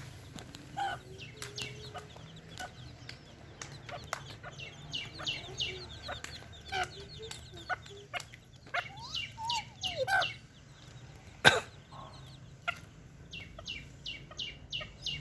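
Baby chicks peeping in many short high chirps, with a rapid run of peeps near the end, and a hen clucking low among them. One sharp click about eleven seconds in is the loudest sound.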